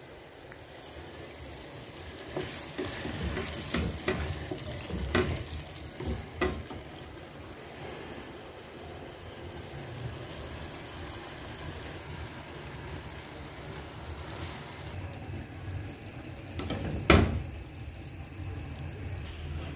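Chicken curry sizzling and bubbling in a pan on a gas hob, a steady frying hiss. Several short clinks or knocks come in the first seven seconds, and a single loud knock about seventeen seconds in.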